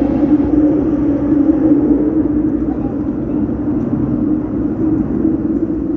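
An SMRT train running, with a steady drone over a continuous low rumble.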